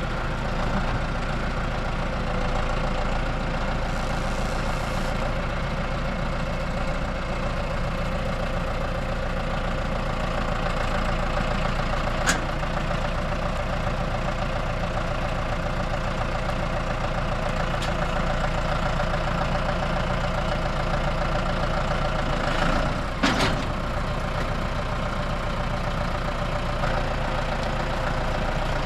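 A farm machine's engine running steadily, as the accumulator is moved. There is a sharp metallic knock about twelve seconds in and another about twenty-three seconds in.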